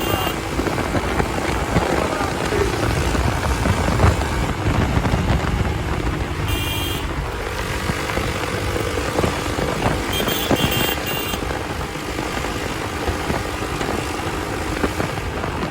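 Hero Xpulse 200's single-cylinder engine running through its new aftermarket exhaust while being ridden, mixed with road noise. Two short high beeps cut in, about six and ten seconds in.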